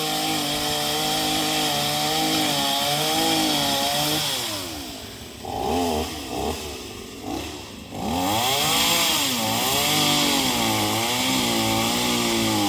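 Gas chainsaw at high revs, cutting through a tree limb. About four seconds in it drops back with a few short throttle blips. From about eight seconds in it revs up again, its pitch dipping and rising as the chain loads up in the cut.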